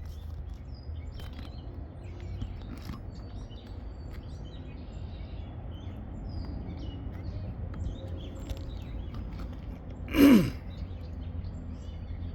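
Outdoor background: a steady low hum with faint bird chirps. About ten seconds in comes one short, loud sound that falls in pitch.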